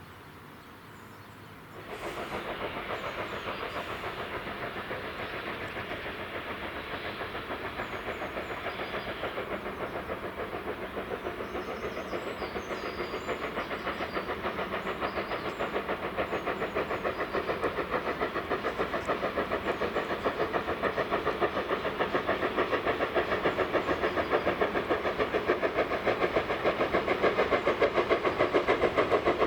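BR Standard Class 2 steam locomotive working a train, its exhaust beats coming in a quick, even rhythm and growing louder as it approaches. Birds chirp faintly in the background.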